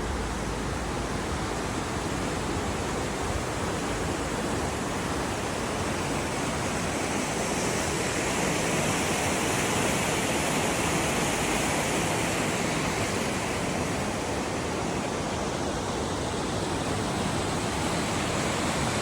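Whitewater of the Staircase Rapids on the North Fork Skokomish River rushing steadily, swelling slightly and growing hissier in the middle.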